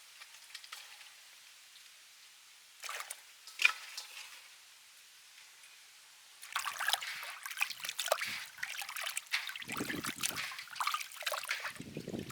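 Water trickling and splashing over raw chicken gizzards being rinsed and handled in a bowl, starting about six seconds in and growing fuller near the end, after a couple of light knocks about three seconds in.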